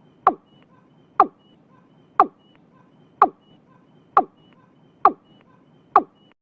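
Watercock (cúm núm) calling: a short, sharp note falling in pitch, repeated evenly about once a second, seven times.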